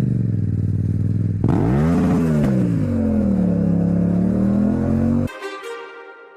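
Motorcycle engine running steadily, then revved once: its pitch climbs and falls back, then holds a steady note before cutting off suddenly, leaving a short fading ring.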